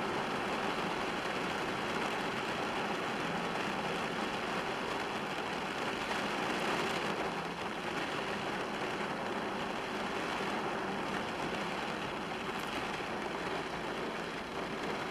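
Heavy tropical-storm rain falling steadily, heard from inside a car.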